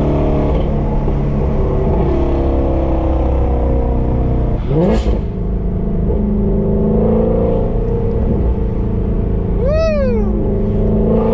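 2017 Shelby GT350's 5.2-litre flat-plane-crank V8 running through Kooks long-tube headers and exhaust, pulling steadily through the corners, with a quick rising rev about five seconds in. Near the end there is a brief high tone that rises and then falls.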